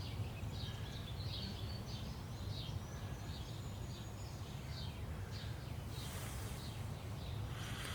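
Birds chirping, many short high calls in quick succession, over a steady low hum.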